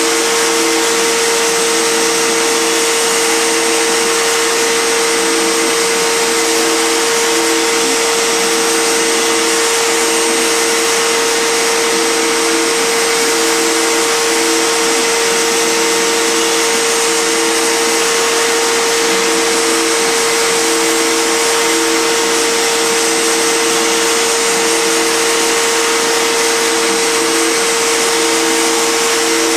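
Fine Line Automation 3x3 CNC router cutting, its spindle running at a steady high-speed whine with loud, even noise. A lower hum switches on and off every second or so as the machine moves.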